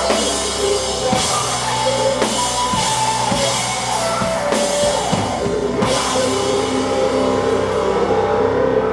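Rock band playing live in an instrumental passage: drum kit with cymbals under sustained electric guitar and bass. The drum and cymbal hits stop about six seconds in, leaving the held guitar and bass notes ringing.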